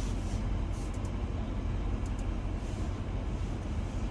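Steady low hum inside the cabin of a 2020 Audi SQ7 parked with its 4.0-litre V8 idling.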